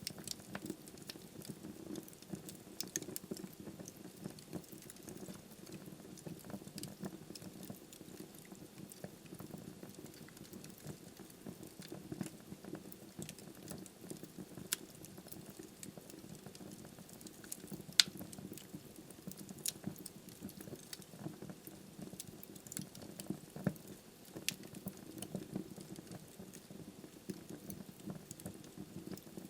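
Wood logs burning in a fireplace: a steady low rush of flame with frequent small crackles and several sharper pops scattered through.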